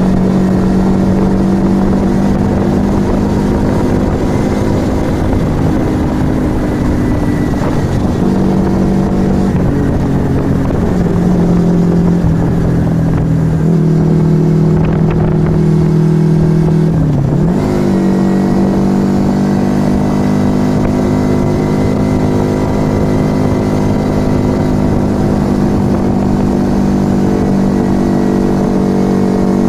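Yamaha XV125 Virago's small air-cooled V-twin running through an aftermarket Turbo Kit exhaust while under way. The engine note holds steady, drops a few steps in the first half, dips sharply and picks back up about seventeen seconds in, then holds steady again.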